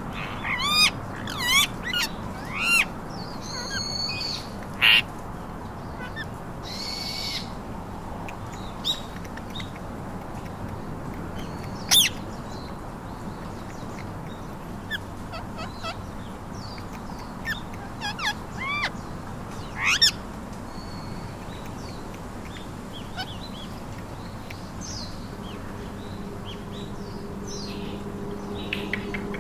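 Pet Alexandrine and ring-necked parakeets calling: sharp, arching screeches, several in quick succession in the first three seconds, then single calls spread out, with another short run at about eighteen to twenty seconds, over a steady hiss. A low steady hum comes in near the end.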